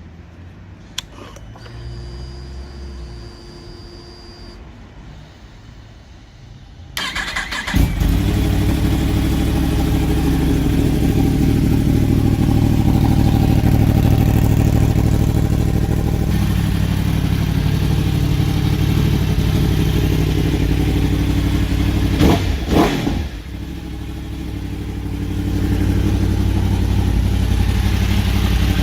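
Yamaha R1 inline-four sportbike engine with an aftermarket exhaust starting about a quarter of the way in, then idling loudly and steadily. About two-thirds through come a couple of sharp throttle blips, after which the sound dips and builds back up.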